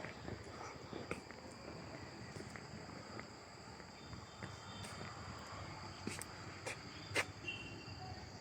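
A steady, faint chorus of high-pitched insects trilling in the trees, with a few sharp faint clicks near the end.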